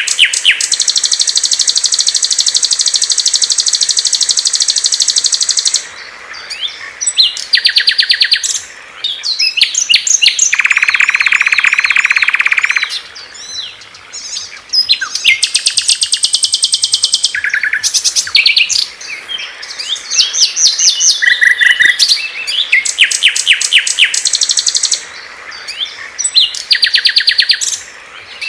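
Songs of several small songbirds in turn: loud, fast trills and rapid chattering phrases. The singers change abruptly every few seconds, with a lower, steady buzzing trill a little before halfway. It is a masteran recording, songbird song compiled to tutor caged birds.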